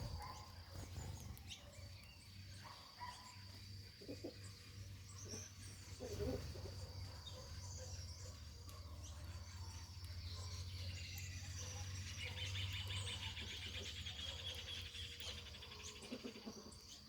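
Wild birds chirping now and then over a faint low hum, with a steady high whine throughout and a rapid rattling trill from about eleven seconds until near the end.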